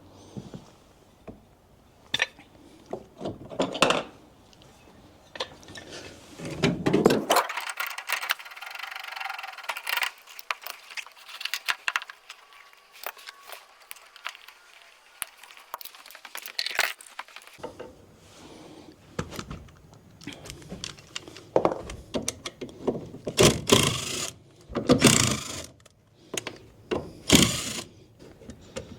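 Hand tools and metal fittings being worked on, with irregular clanks, knocks and scrapes as a furnace and hot water tank are disconnected and shifted. The low rumble drops away about seven seconds in and returns near eighteen seconds.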